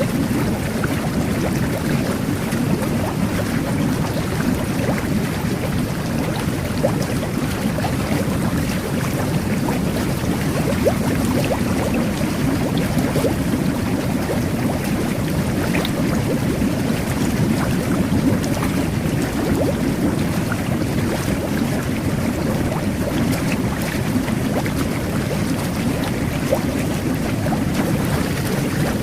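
Jet bath (whirlpool bubble bath) running: a steady, even rush of churning water and air bubbles, heaviest in the low range, with small bubble pops scattered through it.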